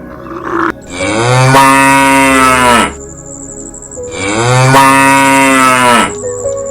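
Cow mooing: two long, loud moos, each about two seconds and each dropping in pitch as it ends.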